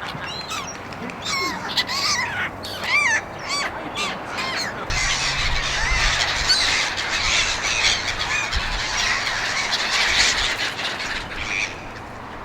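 A flock of black-headed gulls calling: separate rising and falling squawks at first, thickening from about five seconds in into a dense chorus of many birds calling at once. A low rumble joins them at that point.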